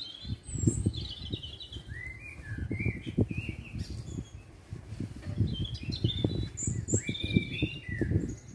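Small songbirds chirping and twittering in quick, repeated short calls, over irregular low crackling and rumbling.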